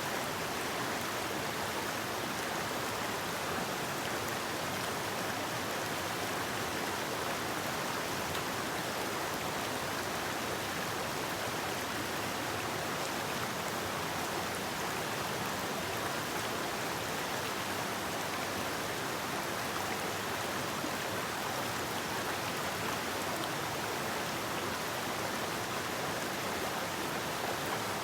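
River water flowing and rushing over rocks in a steady, even wash.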